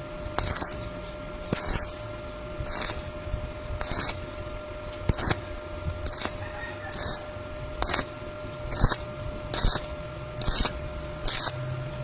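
Welding arc hissing in short bursts, about one a second, as the welder pulses the arc on and off in a stitch or tack weld.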